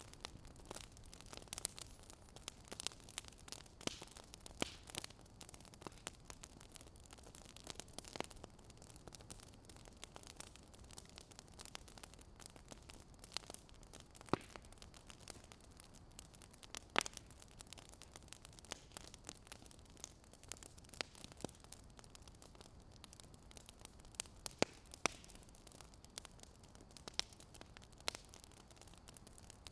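Fire crackling: irregular sharp pops and snaps over a soft steady hiss.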